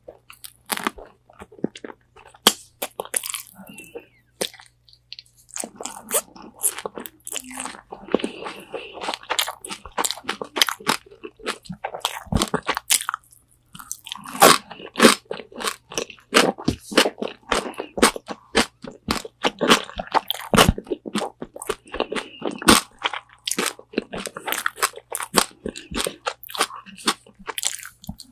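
Close-miked biting and chewing of crunchy Korean spicy fried chicken wings: a dense run of sharp, crackling crunches with wet mouth sounds, broken by a couple of brief pauses.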